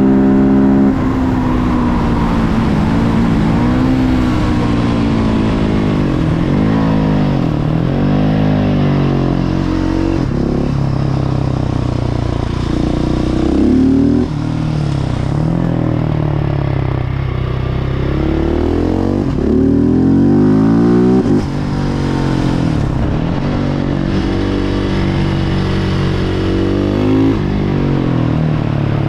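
Husqvarna 701 Supermoto's single-cylinder four-stroke engine through a Remus Blackhawk exhaust, revving up and falling back again and again as the bike accelerates and slows through the gears.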